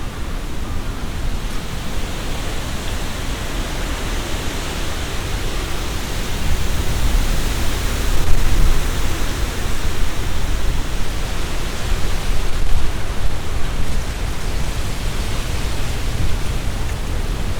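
Strong wind gusting through trees, leaves rustling in a steady rush, with a deep rumble of wind on the microphone. The gusts swell about six seconds in and ease again near the end.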